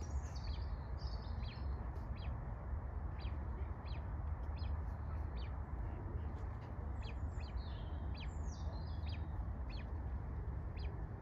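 High-pitched bird chirps and short peeping calls. They come in two bunches, one at the start and one about two-thirds through, with single chirps scattered between. A steady low rumble runs underneath.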